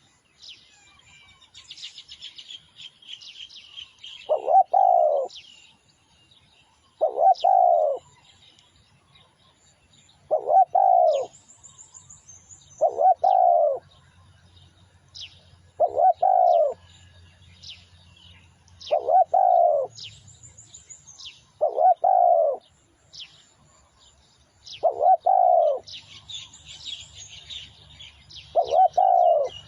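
Spotted dove cooing, one low coo phrase about every three seconds, nine in all. Small birds chirp thinly at a higher pitch between the phrases.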